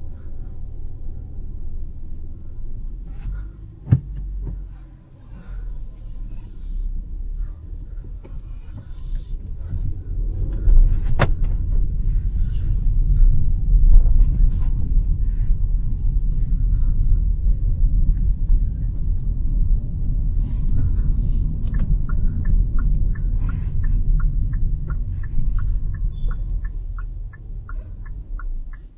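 Hyundai Verna 1.5 turbo petrol car driving, its engine and road noise a steady low rumble that grows louder about ten seconds in. There is a single knock about four seconds in, and near the end a regular ticking of about two a second.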